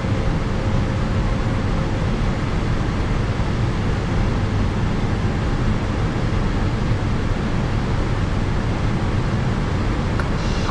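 Steady flight-deck noise of an Airbus A321 with one IAE V2500 engine running: an even low rumble and hiss that holds at one level. A faint steady tone fades out about two seconds in.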